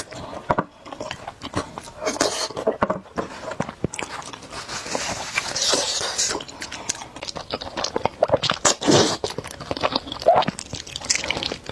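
Close-miked eating sounds: noodles slurped and chewed with wet mouth noises, in short irregular bursts.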